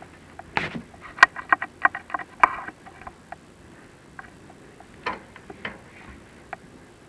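Chimney inspection camera and its rod knocking and scraping against the flue: a quick rattle of sharp clicks and knocks for about two seconds, then a few scattered knocks near the end.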